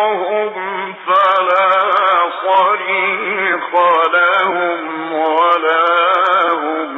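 A man reciting the Quran in melodic tajweed style, holding long notes with wavering ornaments.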